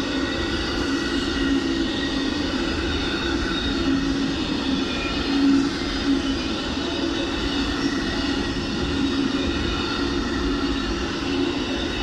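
Amtrak Auto Train autorack cars rolling past at speed: a steady rumble of wheels on rail with a steady low hum, briefly louder about five and a half seconds in.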